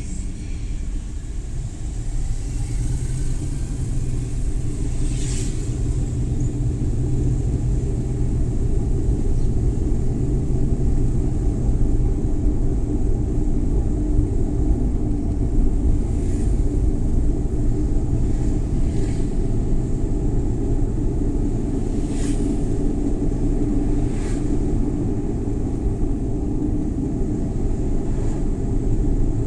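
Suzuki Every Wagon (DA64W) kei van driving, heard from inside the cabin: the small three-cylinder engine's steady hum over low road and tyre rumble. It grows a little louder after the first several seconds.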